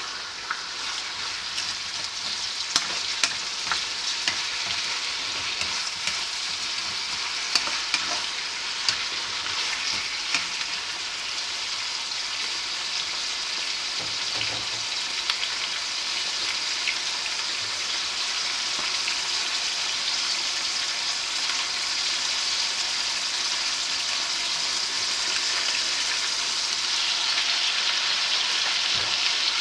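Chicken pieces and onion sizzling as they fry in a wok in their own juices, with no water added. Several sharp clacks of tongs against the pan come in the first third as the pieces are arranged, then the sizzle runs on steadily and grows slightly louder toward the end.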